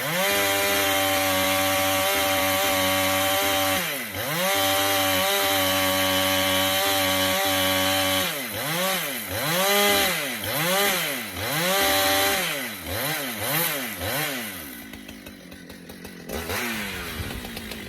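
Husqvarna 395 two-stroke chainsaw held at full throttle cutting white oak, its pitch dipping briefly twice. It is then revved up and down about eight times in quick succession, and drops to idle near the end with one short blip.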